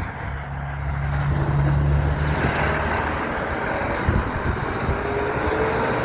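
Big truck's engine running as it passes, a heavy low drone that eases after about three seconds, with a thin high whine from about two seconds in.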